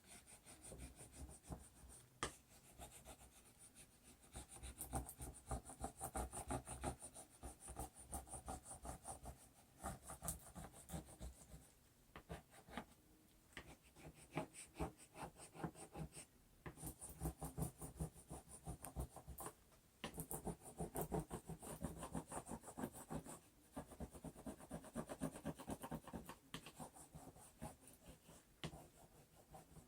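A hand tool rubbed quickly back and forth over contact paper laid on vinyl lettering, burnishing the letters so they lift onto the paper. It goes in spells of rapid scratchy strokes with short pauses between them.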